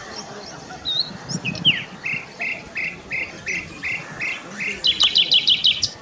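Bird calls: one bird repeats a short note about three times a second, then gives a quicker, higher run of notes near the end, with faint high chirps from other birds behind.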